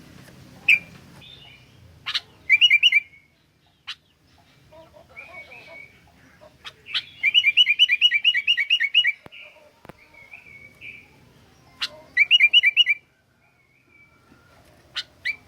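Sooty-headed bulbul (kutilang) singing: loud, sharp chirps and quick runs of repeated rising notes. The longest run, about ten notes, comes in the middle, with shorter runs and single calls around it.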